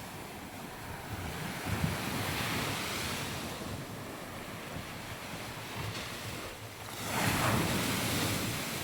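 Sea waves washing onto a sandy beach, swelling and ebbing, with a louder wave surging in near the end. Wind buffets the microphone throughout.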